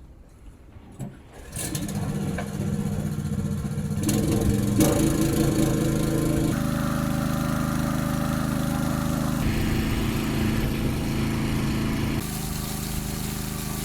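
Small petrol engine of a portable water pump starting up about a second and a half in, then running steadily while it pumps a tidal pit dry. Its tone shifts abruptly a few times.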